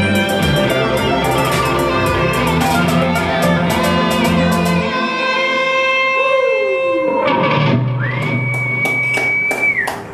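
Live band music with strings and a steady beat. About halfway through, the low end drops away, leaving sustained notes, a falling pitch slide and then a high held note near the end, as the song winds down.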